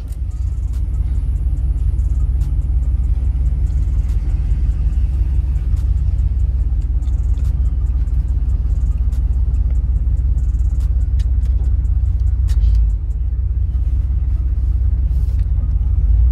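1988 Chevrolet Caprice 'box Chevy' running and driving off, heard from inside the cabin as a steady low rumble.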